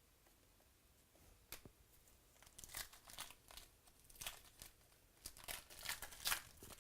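Wrapper of a baseball card pack being torn open and crinkled: a flurry of irregular crackles starting about a second and a half in.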